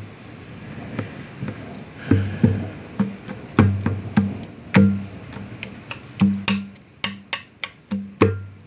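Conga drum played by hand: deep ringing open tones mixed with sharper slaps in a loose rhythm, quickening into a rapid run of strikes near the end.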